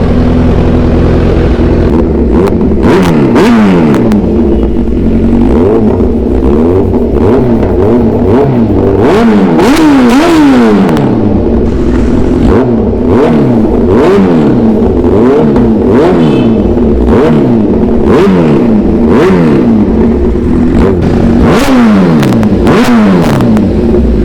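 Kawasaki Z1000's 1000 cc inline-four running through an Arrow full exhaust system, idling steadily for about two seconds and then revved in quick repeated blips, about one a second, each rising and falling in pitch.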